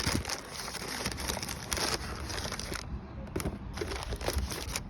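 Rustling and crinkling handling noise, irregular, with a short pause about three seconds in.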